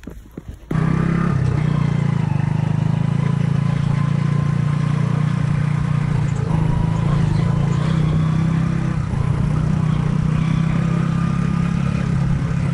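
A 125 cc motorcycle engine running steadily under way, picked up by an action camera mounted on the bike. It starts abruptly less than a second in.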